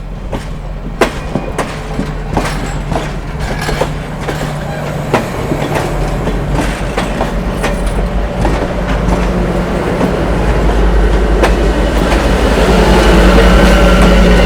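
Train rolling slowly on the rails: its wheels click and clack over rail joints above the steady drone of the locomotive's diesel engine. It grows steadily louder as it comes closer.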